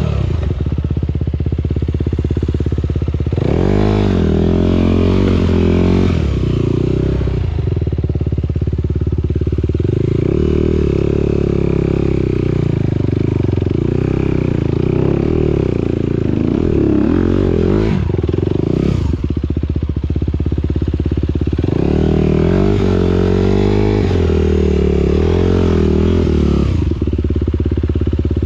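Motocross motorcycle engines running loud and continuously, the pitch rising and falling again and again as the throttle is opened and closed.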